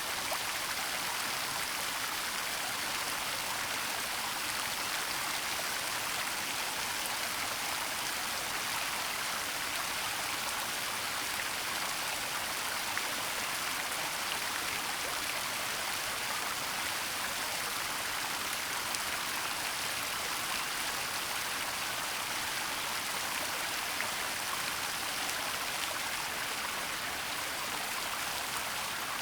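Waterfall in a forest: a steady, even rush of falling water, bright and hissing, with no changes.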